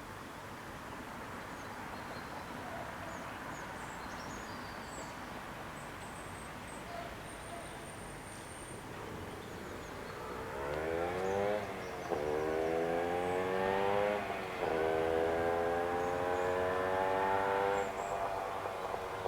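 An ETR 521 electric train arrives at the level crossing: a steady rumble, then from about ten seconds in a loud electric whine that rises in pitch in three steps, its traction motors drawing power.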